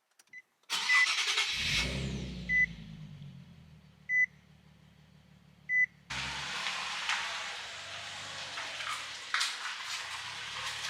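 Nissan 370Z's 3.7-litre V6 starting, briefly flaring, then settling toward idle, with a dashboard warning chime beeping four times at even intervals. From about six seconds in, a louder steady noise with scattered clicks joins the low engine hum.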